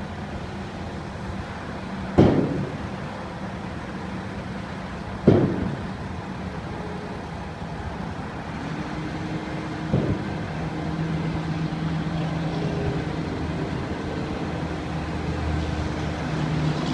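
Mack Granite dump truck's diesel engine running steadily, with three sharp bangs at about two, five and ten seconds in. From about nine seconds the engine note rises and stays higher.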